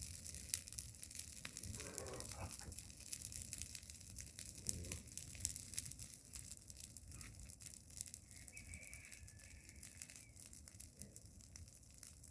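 Large bonfire of pruned thorny brush crackling, with a steady run of small sharp pops.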